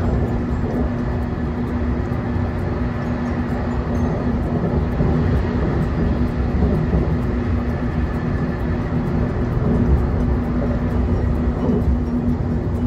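JR Kyushu 813 series electric train running at speed, heard from inside the passenger car: a steady rumble of wheels on the rails with a steady hum over it.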